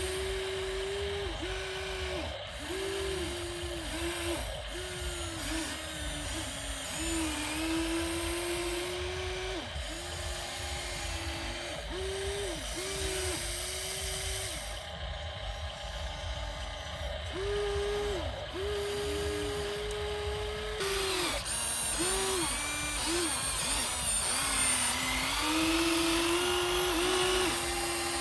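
Small electric gear motors of remote-control toy construction vehicles whining in short runs of a second or two, each rising in pitch as it starts and dropping as it stops, over and over. From about three quarters of the way in, a higher, busier gear noise joins in.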